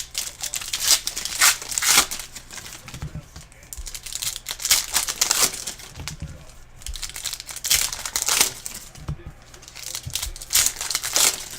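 Plastic and foil wrapping of a trading-card blaster box and its packs crinkling and tearing as it is opened, in a run of irregular rustles.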